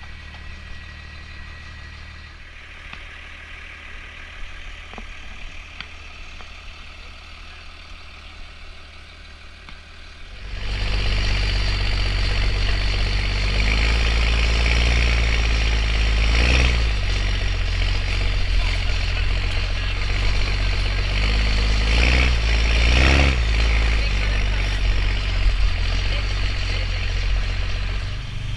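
Truck engine idling low, then about ten seconds in it revs up loudly and drives off, its pitch rising and falling several times as it pulls.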